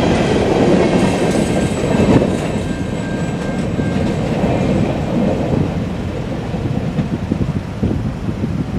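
Empty coal cars rolling past, their steel wheels rumbling and clattering over the rail joints, with a faint thin wheel squeal over the first few seconds. The sound eases off slowly as the end of the train goes by.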